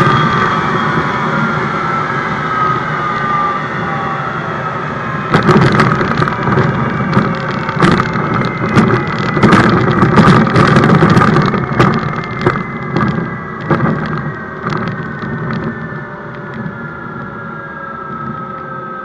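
Jet truck's jet engine winding down, its whine sliding slowly lower in pitch. From about five seconds in, a run of sharp, irregular cracks and pops sounds over it for several seconds before the engine sound fades.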